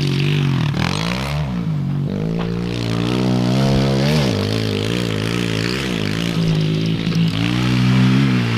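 Pit bike engine revving up and down over and over as the rider works the throttle around the track, with a steady engine note underneath.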